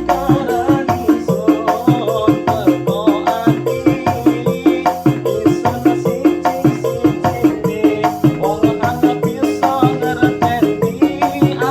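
Instrumental dangdut koplo played on an electronic arranger keyboard: a keyboard melody over a fast, steady drum-and-shaker beat.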